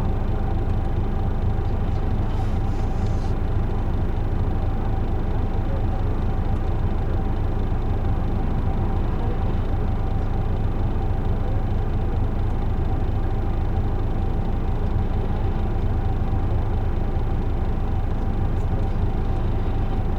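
Isuzu Erga PJ-LV234L1 city bus driving at an even pace: a steady diesel rumble and road noise with a thin constant whine, unchanging in level.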